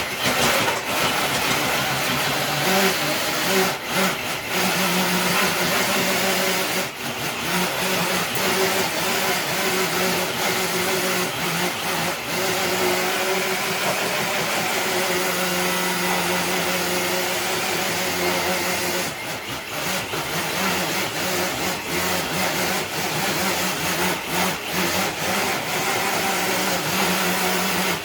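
Electric RC crawler truck's motor and geared drivetrain whining under load as it drags a weighted sled across concrete, with the sled scraping along the ground. The sound runs steadily, with brief dips about seven seconds in and again near twenty seconds.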